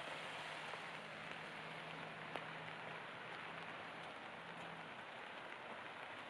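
Steady rain falling, an even hiss, with one sharp drip about two and a half seconds in. A faint low hum runs under it and stops about five seconds in.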